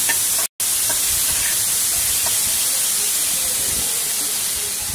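Chopped tomatoes, onion and curry leaves sizzling in hot oil in a kadai while being sautéed soft, a steady hiss. It cuts out for a moment about half a second in.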